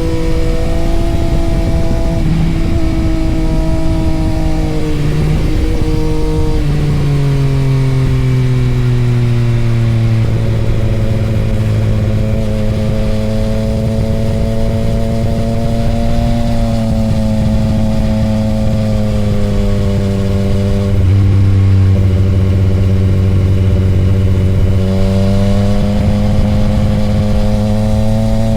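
Yamaha YZF-R1 inline-four engine running continuously at changing revs. Its pitch shifts in small steps, then drops over several seconds; after that it holds fairly steady with gentle rises and falls.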